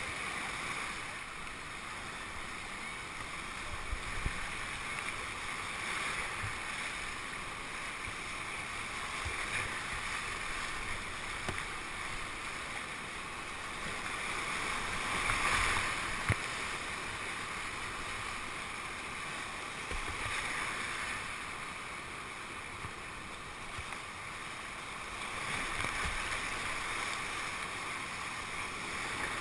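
Whitewater river rushing steadily, swelling louder a little past the middle and again near the end, with a few brief knocks.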